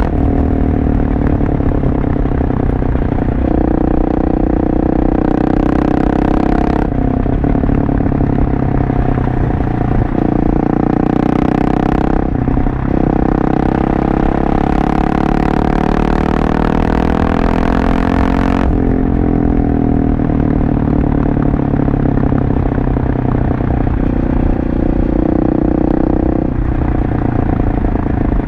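Husqvarna 701 Supermoto's single-cylinder engine running through an aftermarket LeoVince exhaust while riding. The engine note changes pitch in steps every few seconds, with short breaks as the bike is shifted and the throttle is worked.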